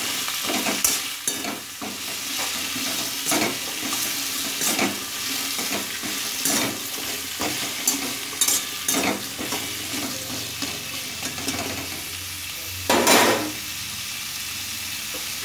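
Pumpkin cubes sizzling as they fry in oil in a metal kadai, stirred with a metal spatula that scrapes and knocks against the pan every second or so. Near the end one louder clatter, then only the steady sizzle.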